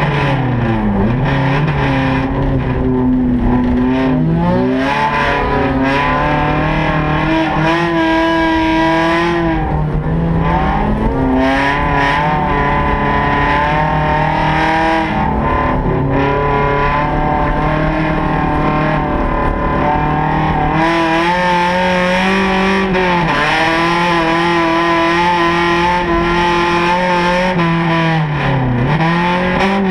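Honda Civic ice racer's engine running hard, heard from inside the cabin; its pitch dips sharply and climbs back about six times as the car works through the track.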